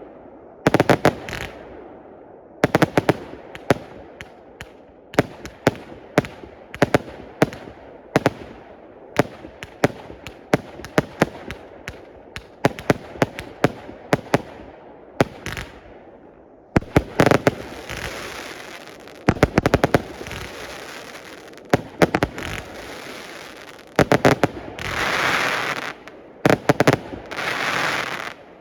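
A 138-shot, 20mm-tube consumer fireworks cake firing: a long run of sharp bangs, some single and some in rapid volleys, loudest in the middle. Near the end come two longer rushing bursts of noise.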